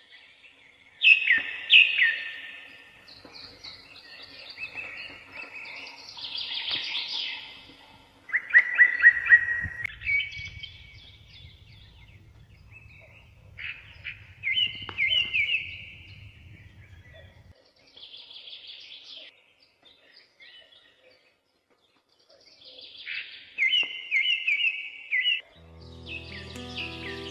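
Songbird singing in short chirping phrases separated by pauses, some phrases made of quick repeated notes. Music comes in near the end.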